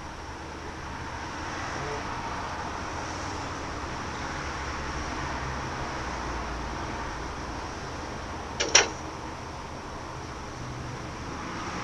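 Steady outdoor background noise, swelling slightly and easing off, with a sharp double click about nine seconds in.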